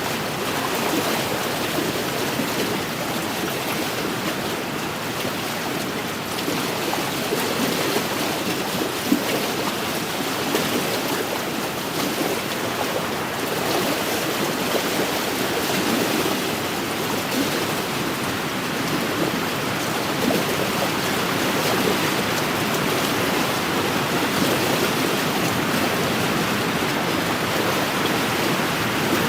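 Wind-driven waves lapping and washing steadily on a lakeshore, a continuous watery rush, with one brief click about nine seconds in.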